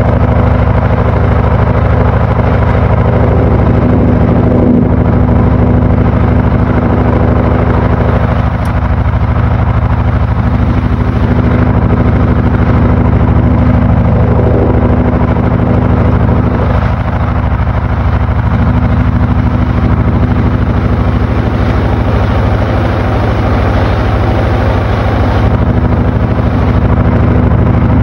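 Panasonic NA-FA80H8 top-loading washing machine running through its cycle: a loud, steady motor hum with a constant churning noise over it.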